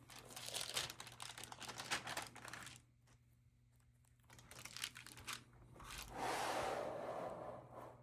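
Stamp album pages being handled and turned: paper crinkling and crackling in two bouts, then a longer swishing rustle about six seconds in.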